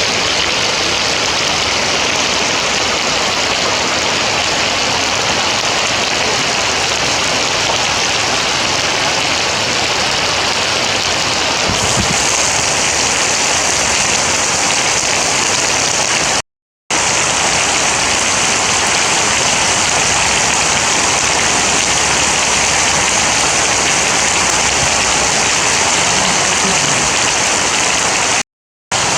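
Heavy rain falling in a steady, dense hiss, cut twice by a brief dropout to silence, about halfway through and near the end.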